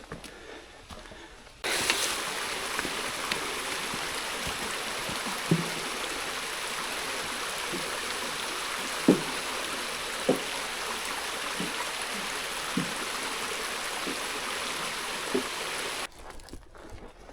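Mountain stream rushing, a steady hiss of flowing water that starts abruptly near the beginning and cuts off abruptly near the end. A few short, low knocks sound through it, spaced a second or so apart.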